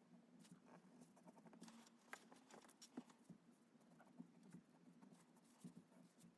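Faint, irregular taps and scratches of a drawing pen or pencil on paper, a few sharper taps among them, over a low steady hum.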